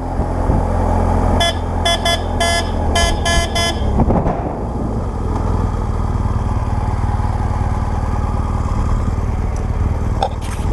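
Motorcycle engine running steadily with a low drone. About a second and a half in, a vehicle horn gives a quick series of about six short toots over it.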